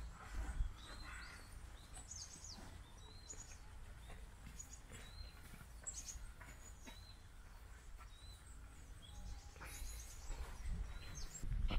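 Small birds chirping outdoors: short high chirps repeating about once a second, over a low steady rumble that grows louder near the end.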